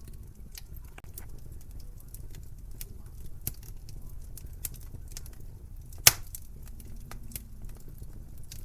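Wood fire crackling in a fireplace: scattered small snaps and pops over a low steady rumble, with one loud sharp pop about six seconds in.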